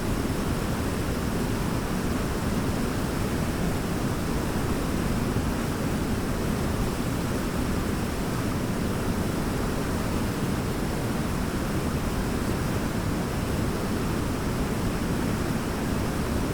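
Large waterfall: a steady, unbroken roar of falling water, heaviest in the low end.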